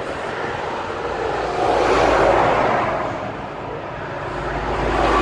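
Road traffic passing close by, with two vehicles going past, one about two seconds in and another near the end, each swelling up and fading away.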